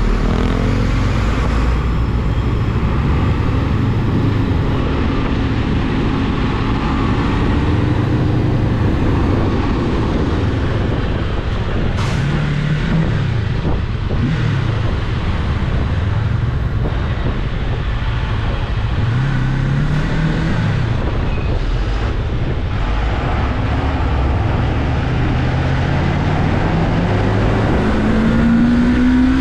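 Rusi Cyclone 400S motorcycle engine on the move, its pitch rising and dropping several times as it accelerates and eases off, with the longest climb near the end. A steady low rumble runs underneath.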